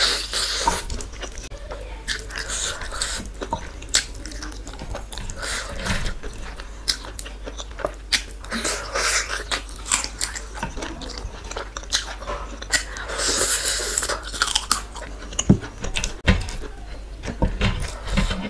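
Close-miked chewing and mouth sounds of someone eating a handful of rice mixed with dal and curry: wet smacking clicks and short bursts of chewing, with a few louder clicks.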